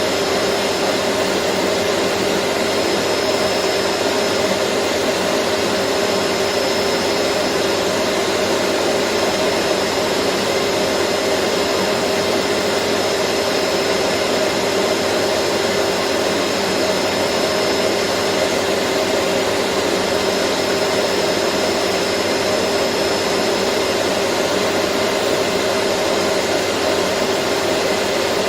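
Vacuum cleaner running steadily: an unbroken motor and rushing-air noise with a constant low hum in it and a faint high whistle that fades in and out.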